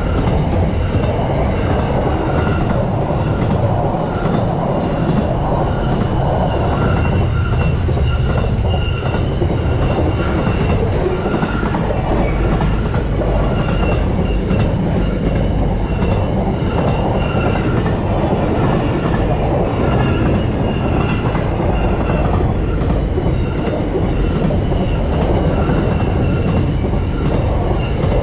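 Intermodal freight train's container wagons rolling steadily past at close range: a constant loud rumble of wheels on rail, with a faint high ringing that pulses about once a second.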